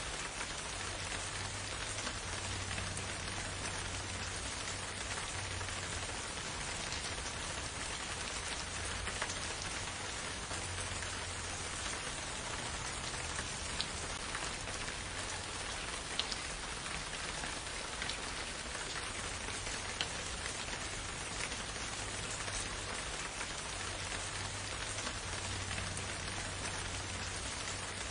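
Steady, even rain falling, with now and then a single louder drop tick standing out from the patter.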